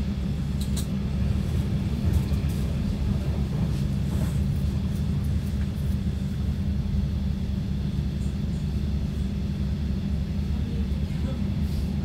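Steady low rumble of a passenger train running on the rails, heard from inside the carriage, with a few brief clicks.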